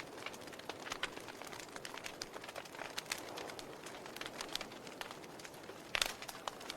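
Wood logs burning in a fireplace, crackling with irregular sharp pops and snaps over a soft hiss. A louder cluster of pops comes near the end.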